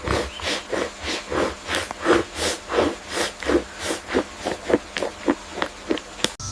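A rapid series of short, sharp animal calls, about three a second and speeding up towards the end, then cut off abruptly.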